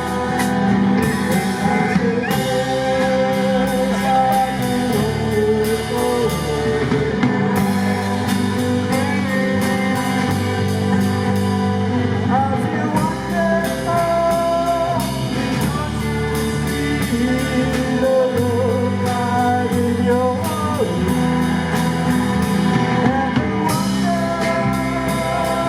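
Live band playing a slow rock ballad: electric guitar, bass and drum kit with a sung or guitar-led melody.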